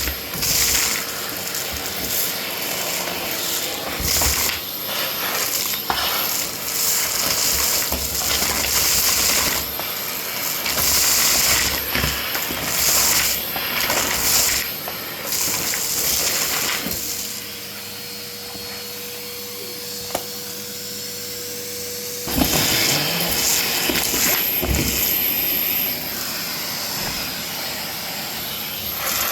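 Vacuum cleaner running over a fluffy surface, its airflow hissing with frequent short crackly bursts as the nozzle is worked. Its motor hum goes on under it throughout. About seventeen seconds in the sound drops to a quieter, smoother hum for about five seconds, then the louder hiss returns.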